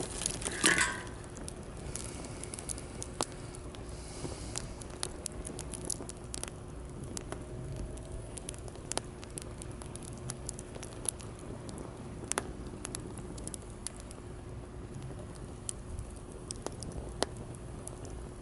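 Wood campfire crackling, with sharp pops scattered irregularly, over the steady low rumble of surf. A brief louder sound rises above it just under a second in.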